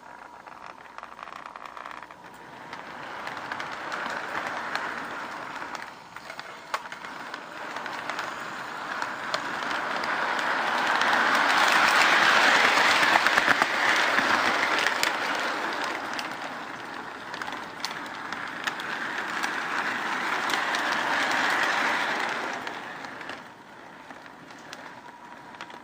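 O gauge model train running on its track, heard from a camera riding on one of its cars: a rolling rush of wheels and motor with frequent small clicks, swelling loudest in the middle and fading near the end.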